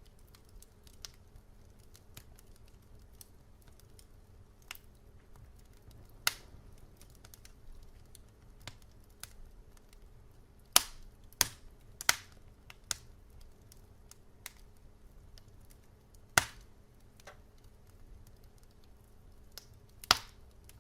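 Wood fire crackling: scattered sharp pops and snaps over a low steady hiss, with a cluster of loud pops around the middle and single loud ones later.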